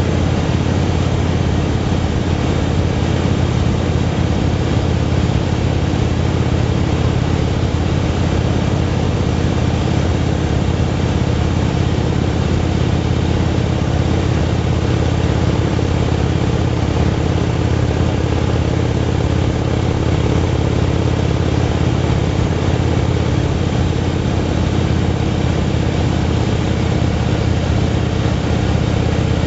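Motorcycle engine running at a steady cruising pace, its drone holding even with no revving or gear changes.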